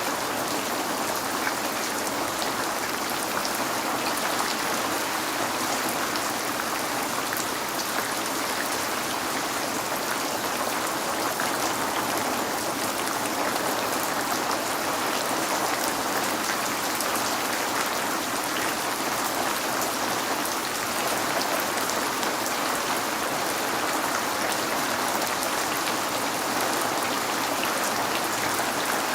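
Steady rain falling, an even hiss dotted with fine drop ticks, with no lulls or thunder.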